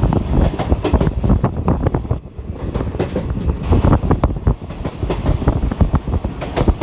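Train running on its track, wheels clattering over the rails in a dense, irregular run of knocks.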